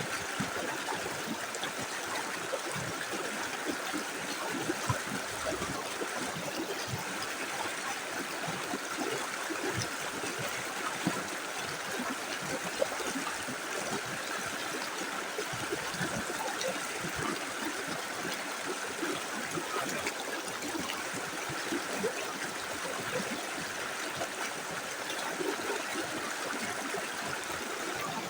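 Small river flowing steadily over stones: a continuous rushing with many small gurgles and splashes scattered through it.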